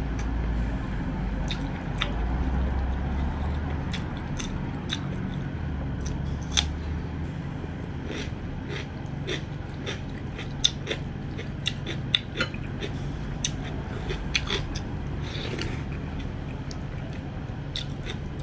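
Close-miked eating sounds: chewing and sharp wet mouth clicks from someone eating spicy soybean curry and rice, scattered irregularly, over a steady low hum.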